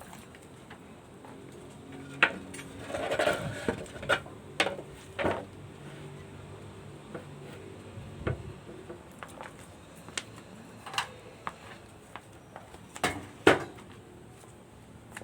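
Irregular sharp clicks and knocks, light clattering with a brief rustling flurry about three seconds in and two louder knocks near the end.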